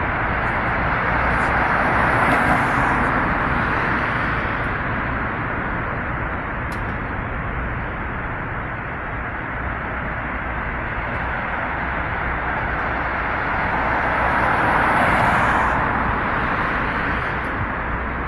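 Steady road-traffic noise, with passing vehicles swelling and fading about two seconds in and again around fifteen seconds in.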